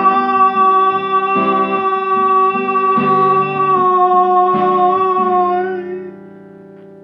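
Acoustic guitar strummed slowly, a chord about every second and a half, under a long held sung note that fades about six seconds in; the last chord rings out.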